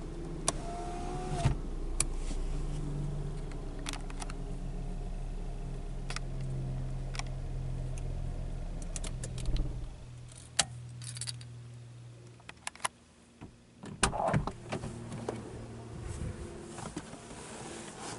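Nissan Primera's engine idling steadily, heard inside the cabin, then switched off with the key about ten seconds in. Clicks and a jangle of keys follow.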